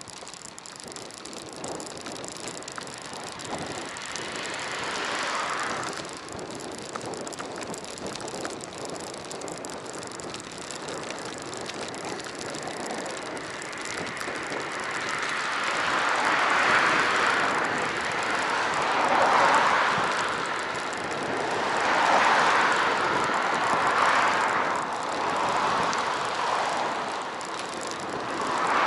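Riding noise of a bicycle, picked up by an action camera: a steady rush of tyres and moving air that swells loud several times during the second half.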